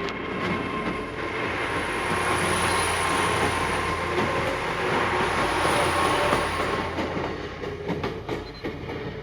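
Train running on the rails: a broad noise that builds to its loudest in the middle and then fades, with a steady high whine above it. A run of sharp clicks comes near the end.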